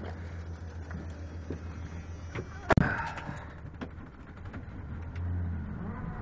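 1986 Ford F-150's 300 cubic-inch inline-six idling steadily after a cold start. About three seconds in comes a single loud metal slam that rings briefly.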